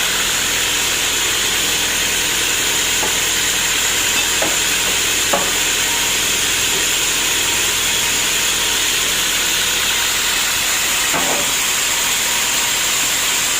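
Sawmill machinery running steadily with a loud, even, high-pitched hiss, with a few brief light knocks about four and five seconds in and again about eleven seconds in.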